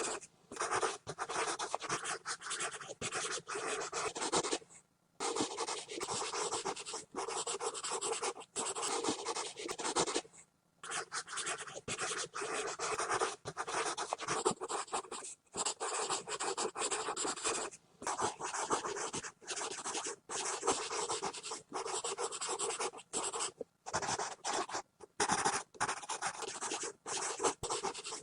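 Pencil scribbling hard and fast on paper, a continuous scratchy rasp broken by short lifts of the pencil, with two longer pauses of about half a second around five and ten seconds in.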